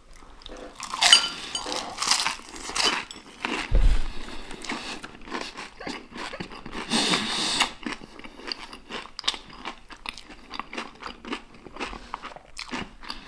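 Crispy fried chicken being bitten and chewed close to the microphone: loud crunches of the fried crust in the first few seconds and again around seven seconds in, with steady smaller crunching and chewing between.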